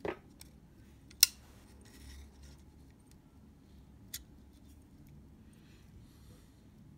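Two sharp clicks from hand work with small tools on a camera's shutter mechanism: a loud one about a second in and a fainter one about four seconds in, with faint handling rustles between them.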